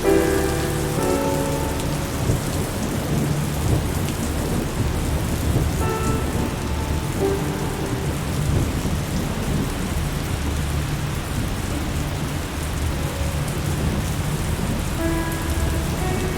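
Steady rain falling on surfaces, with a low rolling rumble of thunder underneath. Soft held musical notes rise over it near the start, around the middle and again near the end.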